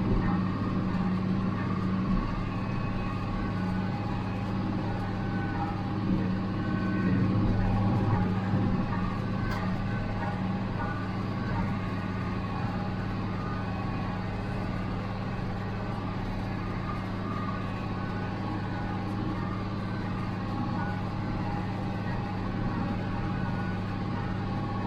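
1976 International Harvester 886 tractor's six-cylinder diesel engine running steadily under load while it pulls a John Deere 348 square baler through a windrow of hay.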